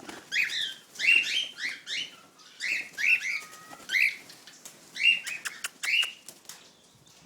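Cockatiels calling: a dozen or so short, sharp chirps, roughly two a second, with a few sharp clicks about five seconds in.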